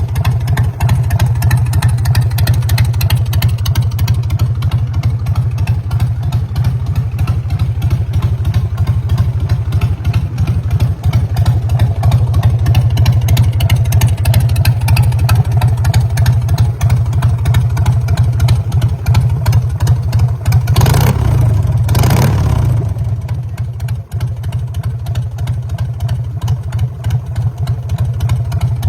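Harley-Davidson Sportster 883's air-cooled V-twin engine running at a steady idle. It is briefly revved about two-thirds of the way through, then drops back to idle.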